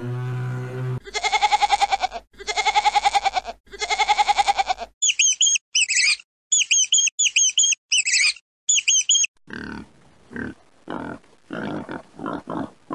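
A string of young animal calls: a low call ending about a second in, then three long calls, then a quick run of high bird chirps, then a series of short piglet grunts near the end.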